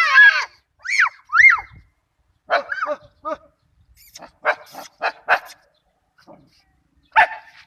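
Dog yelping and barking: a wavering high whine and two short rising-falling yelps near the start, then groups of short sharp barks.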